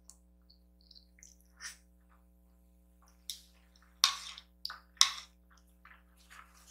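Close-miked wet eating noises of someone eating noodles: quiet mouth clicks at first, then a few short, loud, wet slurps and smacks between about three and five and a half seconds in.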